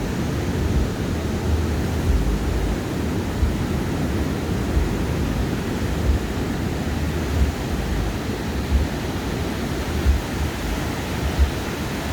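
Ocean surf washing steadily on a sandy beach, with wind rumbling on the microphone. Faint thuds about every second and a third are slow footsteps on the sand.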